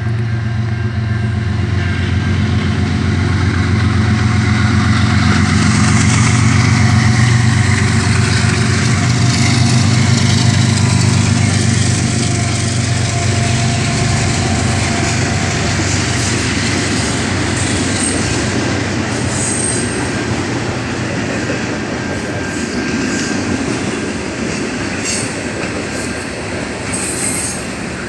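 Intermodal freight train of container and trailer cars passing close by. A deep steady drone is loudest for about the first twelve seconds. After that the cars roll on with wheels clattering over the rail joints and a few brief high wheel squeals.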